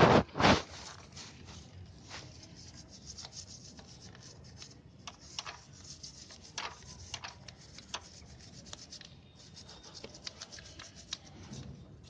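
A brush scrubbing the front sprocket area of a motorcycle chain drive: many short, scratchy strokes. Two loud knocks come right at the start.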